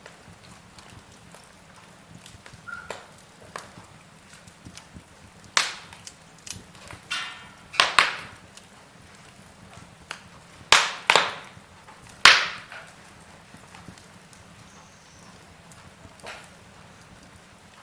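Logs burning in a fireplace, crackling with irregular sharp pops, several loud ones close together in the middle, then only faint sparse crackles towards the end.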